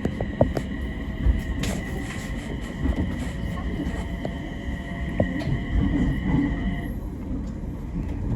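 Tohoku Main Line train running, with low rumbling and scattered clicks. A steady high-pitched whine cuts off about seven seconds in.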